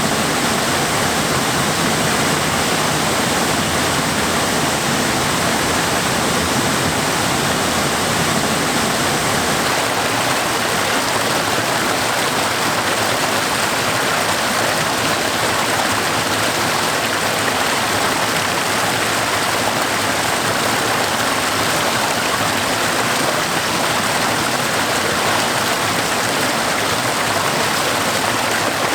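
Waterfall: a steady, unbroken rush of water pouring over rocks.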